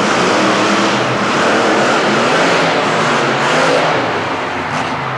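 Monster truck engine running loudly and revving, its pitch rising and falling.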